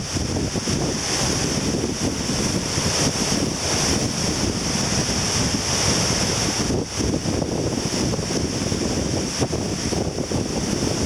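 Heavy wind buffeting the microphone over the steady wash of surf breaking on the beach.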